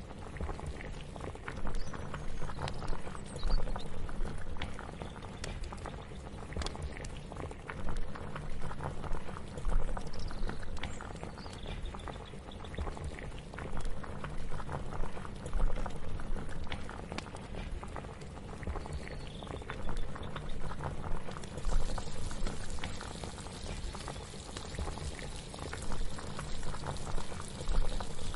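Pot of liquid bubbling at the boil, a dense run of small pops and gurgles that swells and falls. About three quarters of the way through, a higher hiss joins in.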